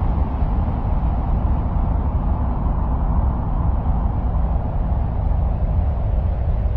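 Steady, deep noise of a 'sound of Mars' ambient white-noise track. It is heaviest in the bass, with a fainter hiss above, and does not change.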